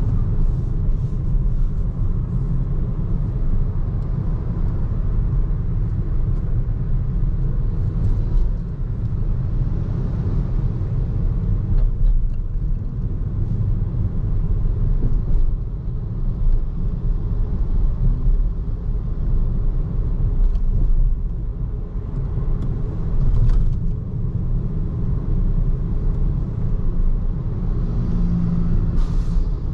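Steady low road rumble from a BYD Seagull electric car on the move: tyre and road noise with no engine note, with a few brief louder swells.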